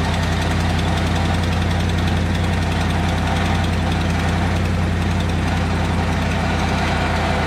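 Truck engine idling on a cold first start, with a rapid, steady ticking that the owner takes for an exhaust leak rather than a lifter tick.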